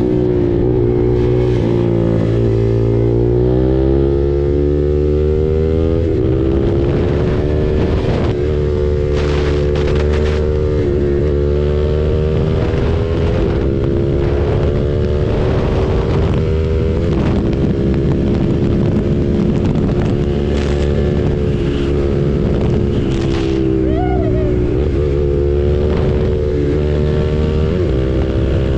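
KTM RC 390's single-cylinder engine through an SC Project exhaust, running under way: it rises in pitch a couple of seconds in, then holds at a steady cruise with small rises and dips. Wind rumbles on the microphone throughout.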